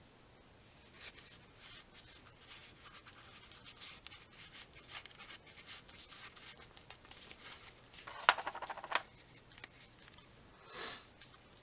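Soft rubbing and scratching as polyester fiberfill is worked into a headphone ear cushion with a stick. About eight seconds in comes a louder, rapid scratching for about a second, and near the end a short hiss.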